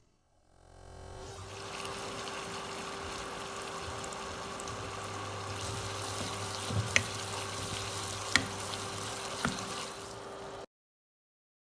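Onion-cashew paste sizzling in oil in a pan as it is stirred with a wooden spoon, over a steady low hum, with three sharp knocks of the spoon against the pan in the second half. The sound cuts off abruptly near the end.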